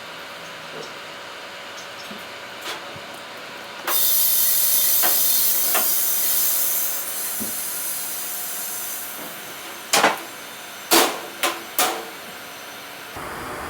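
Compressed air hissing loudly, starting suddenly about four seconds in and fading away over several seconds, during truck tyre puncture work. Then four sharp knocks in quick succession.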